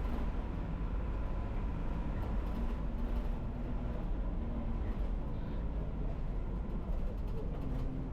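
Non-air-conditioned city bus on the move, heard from inside the cabin: a steady low engine rumble with road noise.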